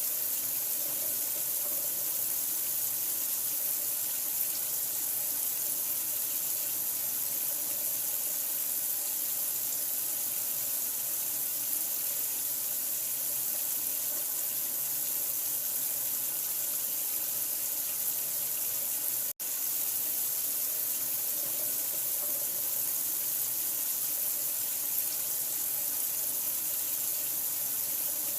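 Water running steadily, an even unbroken hiss, cutting out for an instant about two-thirds of the way through.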